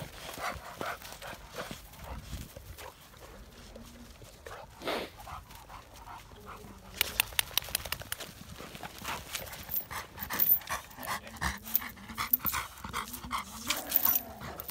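An adult American Bully dog and puppies play-fighting: scuffling and dog noises, with a run of quick sharp clicks and knocks from about halfway on.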